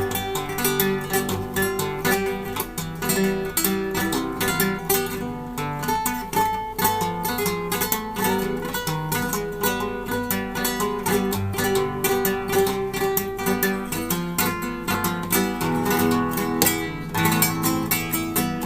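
Acoustic guitar playing: a steady stream of quick plucked notes and chords.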